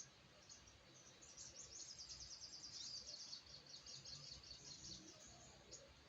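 Sogok ontong, a small wild-caught songbird, giving a fast, high twittering chatter for about three seconds, then a few scattered chips.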